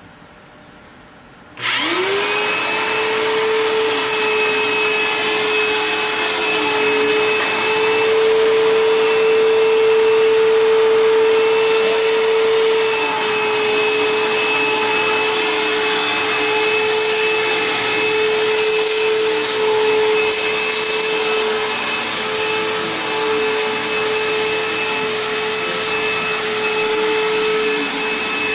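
A 12 amp bagless Bissell CleanView Helix upright vacuum is switched on about a second and a half in. Its motor spins up quickly to a steady high hum and then runs loudly and evenly. It is running without its HEPA filter, which the owner says made it sound a little different.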